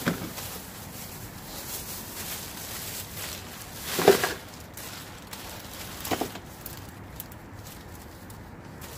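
Items being handled while a bag is gone through: a few short rustles and knocks over a low background. The loudest comes about four seconds in, with others at the start and near two-thirds through.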